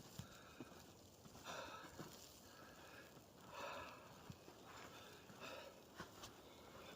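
Faint footsteps crunching in snow, a soft step about every second.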